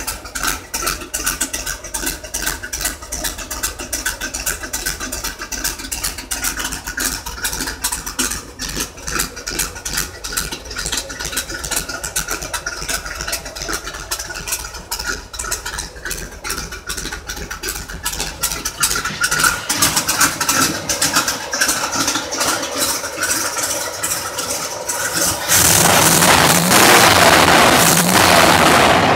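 Corvette V8 running, heard from inside the cabin with a rapid, uneven pulsing. About 25 seconds in, the sound cuts to the open engine bay: the engine is much louder there, and its pitch rises and falls as it is revved.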